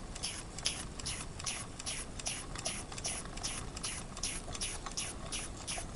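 Wilesco model steam engine ticking over slowly, its exhaust puffing steam in an even rhythm of about two to three soft hissing chuffs a second.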